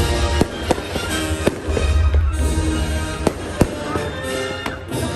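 Fireworks going off in a string of sharp, irregular bangs over loud music with sustained notes and a heavy bass.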